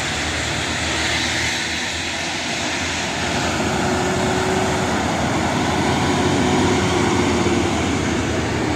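Heavy truck's diesel engine running under load on a climb, a steady drone that grows louder about three seconds in, with a steady whine over it for a few seconds.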